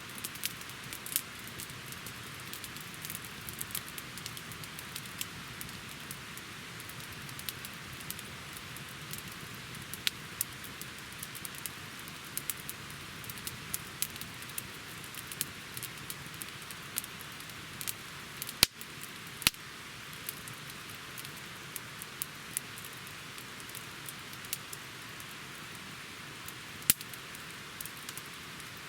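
Wood campfire burning in a fire stand: a steady hiss with frequent sharp crackles and a few louder pops, the strongest a little past halfway and near the end.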